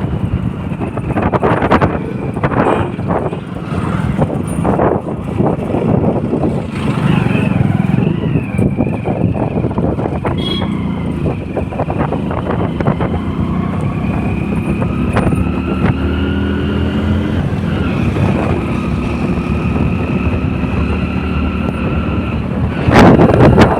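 Motorcycle engine running under way, with wind buffeting the microphone. The engine pitch climbs as it accelerates, drops at a gear change about two-thirds of the way in, then holds steady. A loud rush of wind noise rises near the end.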